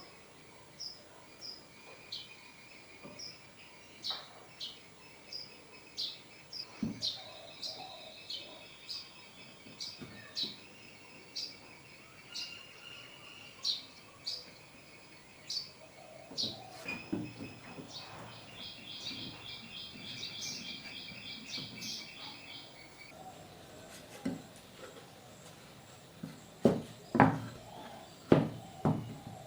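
Small birds chirping over and over in short high notes, with a fast high trill in the middle. Several sharp knocks come close together near the end.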